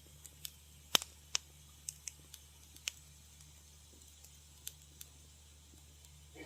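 Wood fire in a fireplace crackling: scattered, irregular sharp pops, the two loudest about a second in, with a steady low hum underneath.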